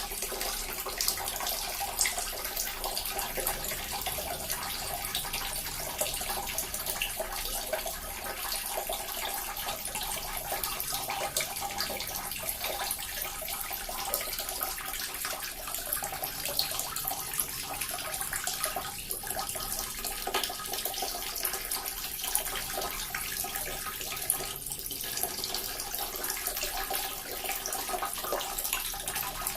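Small water fountain running steadily, water splashing and trickling without a break.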